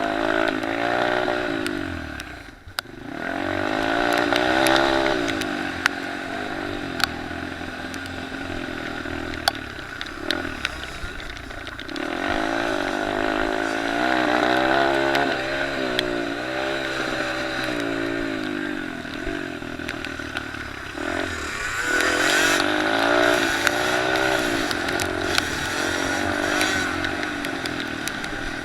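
Small motocross and pit bike engines revving up and down again and again as they accelerate and shift, with more than one bike at times. A brief drop in sound comes about three seconds in, and a few sharp ticks are scattered through.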